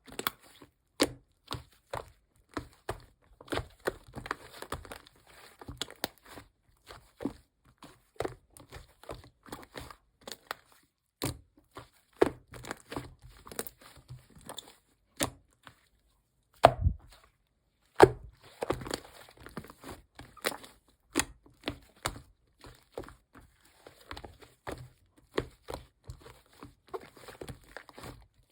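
Close-up handling of paper or plastic: crinkling and tearing, broken up by many sharp taps and clicks, with a few louder knocks.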